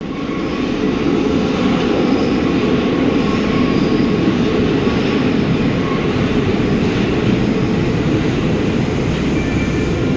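Paris Métro line 7 train running, heard from on board: a loud, steady rumble of the car and its wheels on the rails, with faint thin tones above it.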